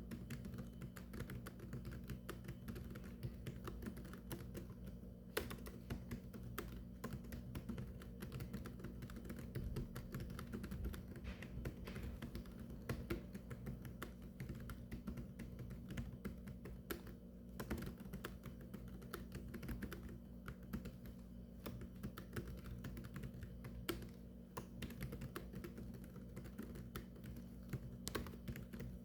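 Rapid, continuous typing on a keyboard: a dense, uneven stream of keystroke clicks with a steady low hum underneath.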